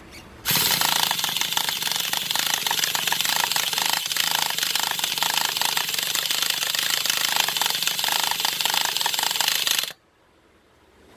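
The electric starter of a Traxxas Revo 3.3 nitro engine cranking it in a harsh, steady buzzing rattle for about nine seconds, then cutting off suddenly without the engine catching. The owner thinks the engine sounds as if it wants to fire but has no compression.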